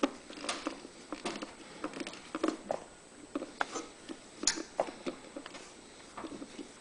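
Hand work with a Phillips screwdriver, screwing a small fuel pump onto a generator's airbox lid: irregular light clicks, taps and small scrapes, about one or two a second.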